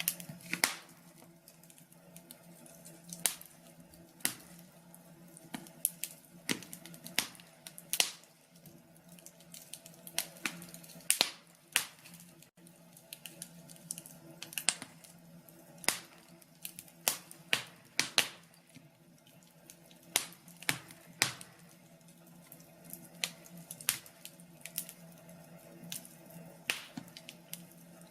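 Wood fire crackling in a fireplace: irregular sharp pops and snaps, sometimes several in quick succession, over a faint steady background hum.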